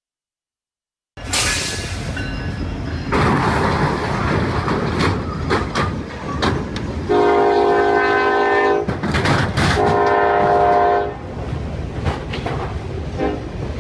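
Train passing with a heavy rumble and clattering wheels, starting suddenly about a second in. Its locomotive air horn sounds a chord in two long blasts in the middle, the second after a short gap.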